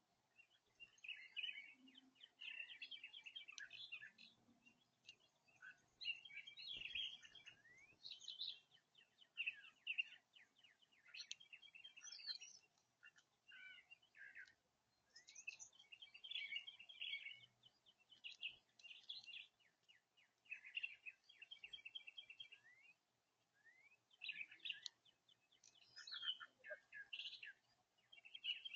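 Birds chirping and singing faintly in short, rapid trills and chirps, phrase after phrase, with brief gaps every second or two.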